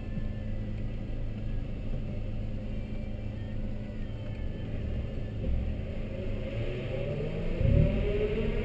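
A car engine idling steadily, heard from inside the cabin. Near the end, another engine revs up in rising pitch, with a loud low thump shortly before the close.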